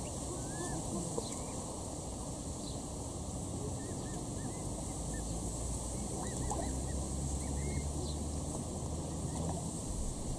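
Short high bird chirps, single and in little runs of three or four, over a steady outdoor hiss; a low hum comes in during the second half.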